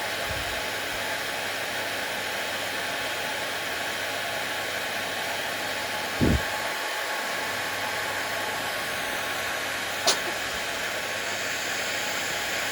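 Hair dryer running steadily with an even rushing noise. A short low thump comes about six seconds in, and a sharp click about ten seconds in.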